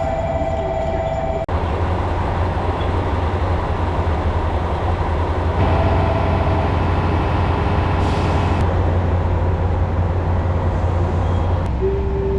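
Steady low rumble of the Yufuin-no-mori diesel train running, with a faint steady whine at times. The sound changes abruptly about a second and a half in and again near the end.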